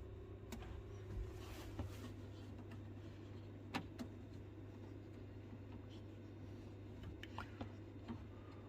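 A few light clicks and taps of hands working the hot water isolation valve knob under a combi boiler, over a faint steady low hum; the knob turns without opening the valve, which is found worn out.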